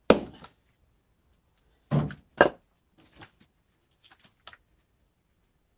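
Firewood splitting: a sharp strike on pine wood just at the start, then a heavier thud and another sharp strike about two seconds in, followed by a few faint knocks of wood pieces.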